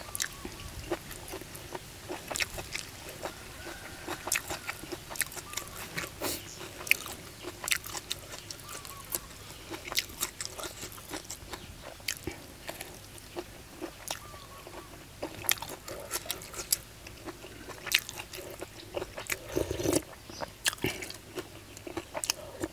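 Close-miked chewing of crunchy, gristly boiled cow's mouth lining: irregular sharp crunches, a few of them louder, with a louder run of chewing near the end.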